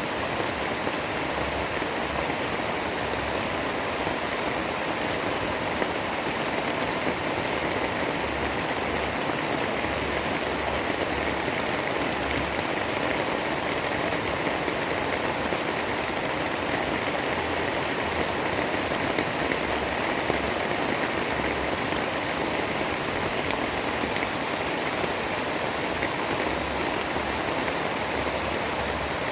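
Steady heavy rain, an even rushing noise that holds without breaks or thunder.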